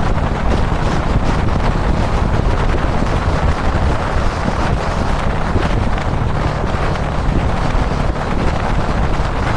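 Heavy wind buffeting on the camera microphone at expressway speed, with a Kawasaki Dominar 400 motorcycle's single-cylinder engine running steadily underneath.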